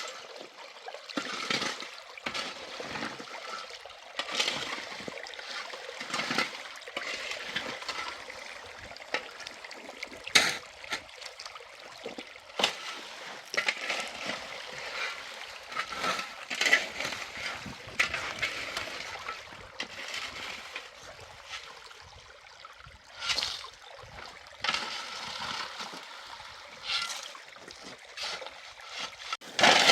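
Water splashing and sloshing in irregular bursts, with a few sharp knocks, typical of hand-washing or rinsing in a basin of water.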